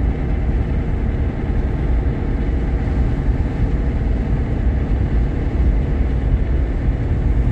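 Jeep Grand Cherokee Laredo driving, heard from inside the cabin: a steady low rumble of engine and road noise with no distinct events.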